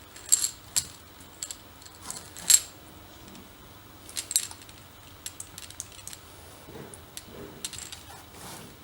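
Small hard parts of a test-tube Stirling engine clicking and clinking as they are handled and set down, in a string of separate sharp clicks with the loudest about two and a half seconds in.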